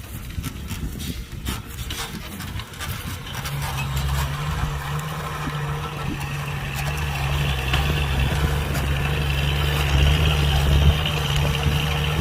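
Engine of a heavy machine running steadily, a low even hum that comes up about three seconds in and grows gradually louder.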